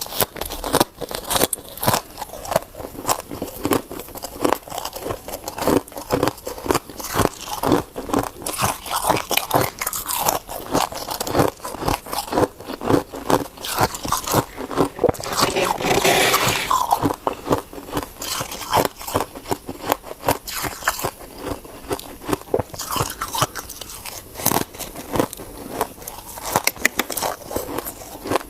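A person biting and chewing ice, a rapid run of sharp crunches, with a denser, louder spell of crunching about halfway through.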